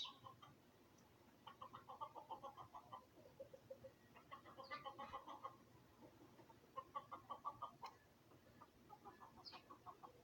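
Chickens clucking softly in quick runs of rapid, even notes, four runs of about a second each, with a short high bird chirp at the start and another near the end.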